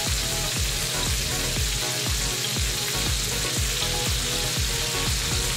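Shredded cabbage and diced carrot sizzling steadily in bacon fat in a frying pan over medium-high heat.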